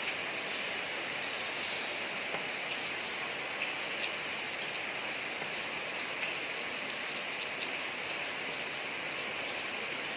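Steady rain falling on a street: an even hiss of rainfall with scattered sharper drop ticks.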